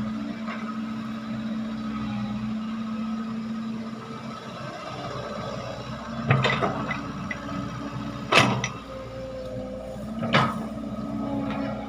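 Diesel engine of a Kobelco SK135SR hydraulic excavator running steadily, with three loud clattering knocks about six, eight and ten seconds in, the one at eight seconds the loudest.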